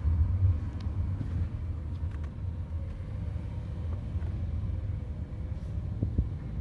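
Garbage truck's diesel engine running, a steady low rumble with a faint whine above it.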